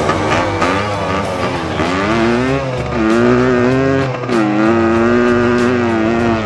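Dirt bike engine revving up twice and holding high revs steadily after each rise, with music playing underneath.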